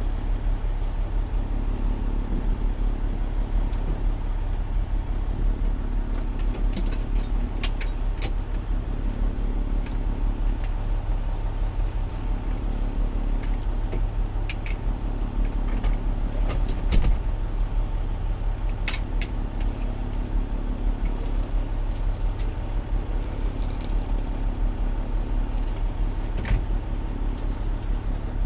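Fire engine's diesel engine idling steadily, a constant low rumble heard from inside the cab, with a few faint clicks scattered through it.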